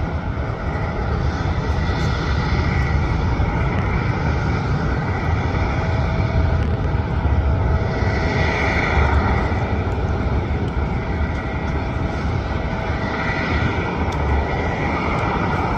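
Jet airliner's engines running: a loud, steady rushing noise with a constant whine, swelling a little about halfway through.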